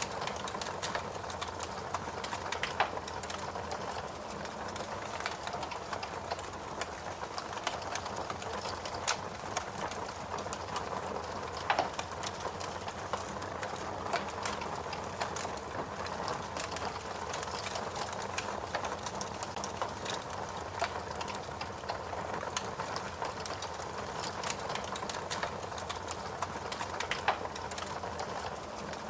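Fire crackling: a steady hiss with frequent small snaps and a few louder pops scattered through.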